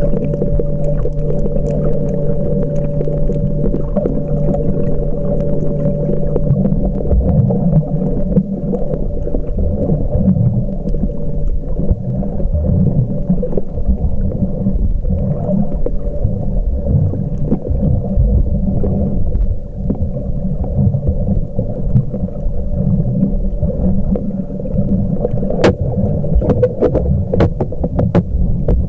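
Muffled underwater sound picked up by a camcorder in a waterproof housing while snorkeling: a heavy, wavering low rumble of moving water, with a steady hum. There are several sharp clicks near the end.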